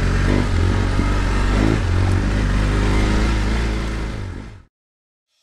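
Motorcycle engine running under load while riding, its note rising and falling with throttle. It cuts off abruptly to silence about four and a half seconds in.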